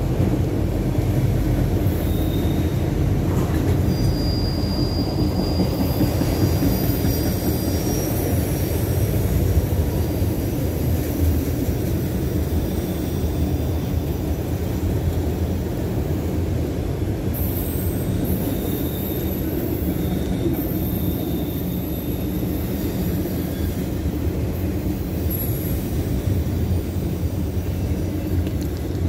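Norfolk Southern freight train of autorack cars rolling past, a steady low rumble of steel wheels on the rails. Thin, high-pitched squeals come and go over it.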